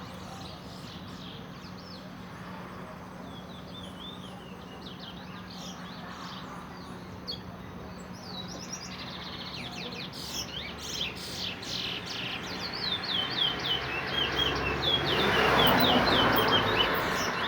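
A twa-twa (large-billed seed finch) singing: a run of quick, short notes that starts sparse, then comes faster and louder in the second half. A steady low hum runs underneath, and a rushing noise swells briefly near the end.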